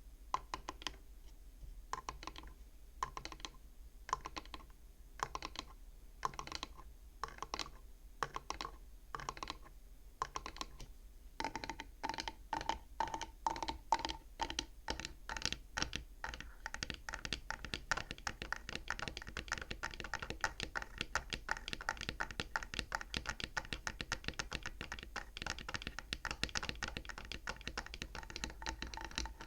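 Tapping on the wooden frame of a bead abacus, each tap with a short ring. The taps come about twice a second at first, speed up about ten seconds in, and run into a fast, dense flurry from about halfway.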